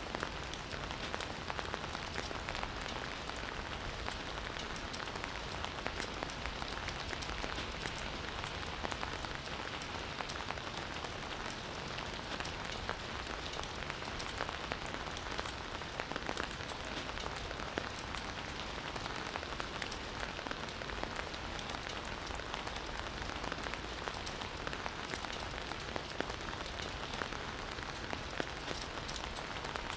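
Campfire burning, a dense run of small sharp crackles and pops over a steady hiss of the flames.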